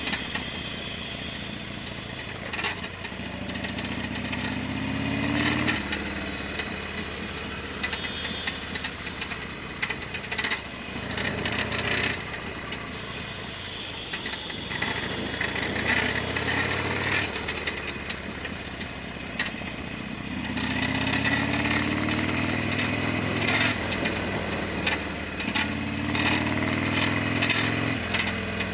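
Harley-Davidson XL1200R Sportster's air-cooled V-twin running on the road, its pitch rising several times as it pulls up through the revs. Short sharp clicks and clatters come through it at intervals; this is the rattle the owner is trying to trace.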